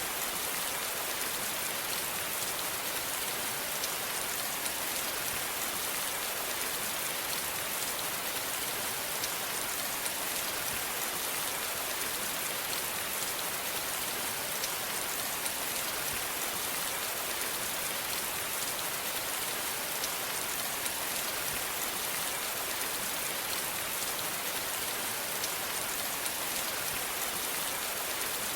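Steady rain falling on a surface, an even hiss with fine pattering drops.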